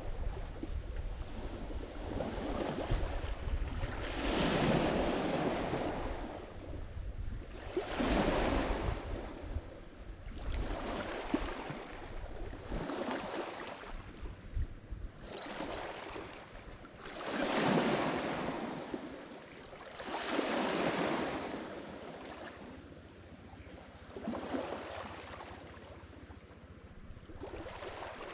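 Lake Michigan waves breaking on the shore, each one surging up and washing back, about every three to four seconds.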